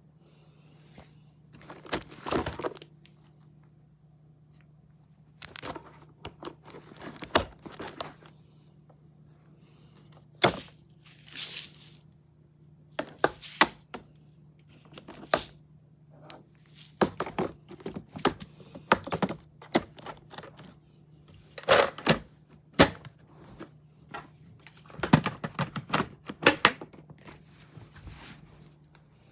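Irregular clusters of sharp clicks, knocks and short rustles, as of hard plastic parts being handled, with no motor running; a faint steady low hum underneath.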